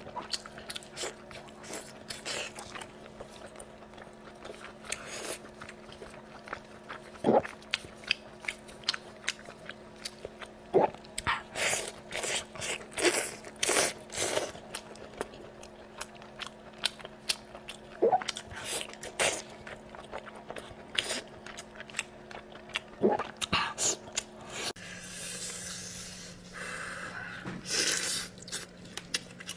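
Close-miked eating sounds: a person chewing and biting, with irregular wet mouth smacks and sharp clicks, over a faint steady hum that drops lower about 25 seconds in.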